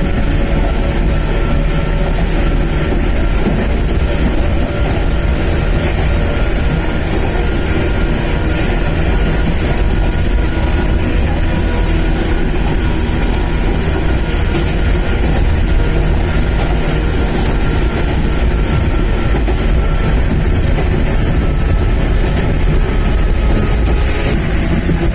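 Sangi Railway electric train running along the line: a steady low rumble of wheels on rails with a faint, even whine above it.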